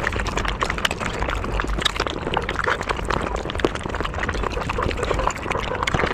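Sped-up mukbang eating sounds: dense, rapid wet chewing, crunching and smacking on chicken, a constant stream of small clicks and crackles.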